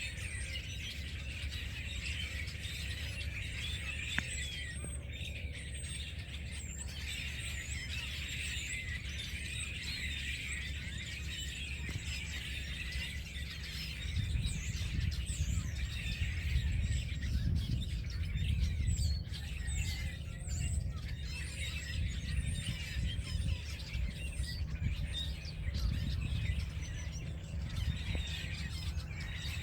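A large flock of small birds chirping and squawking in a dense, continuous chorus. A low rumble underneath gets louder about halfway through.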